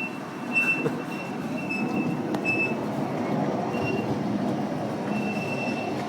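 Miniature passenger train heard from aboard, its cars rumbling steadily along the track. A high, thin wheel squeal comes and goes several times, with a single sharp click a little over two seconds in.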